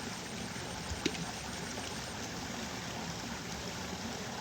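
Steady rushing background noise, with one short sharp click about a second in.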